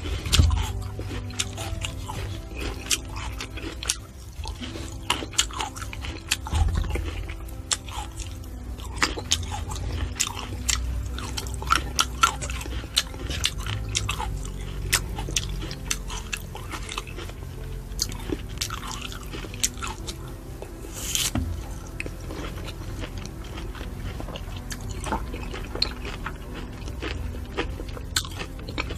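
Close-up mouth sounds of someone chewing and biting fresh fruit: many short, sharp, wet clicks and crunches.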